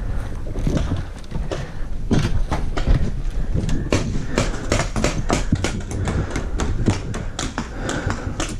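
A rapid, irregular run of sharp clicks and knocks over a low rumble, busiest in the second half.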